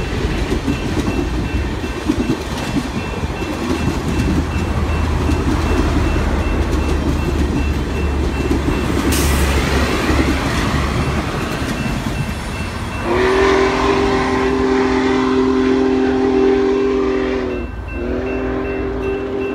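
Passenger cars rumbling and clacking over a grade crossing while the crossing bell dings. After the last car clears, a train whistle sounds a loud chord of several pitches in a long blast of about four and a half seconds, then starts again after a short break.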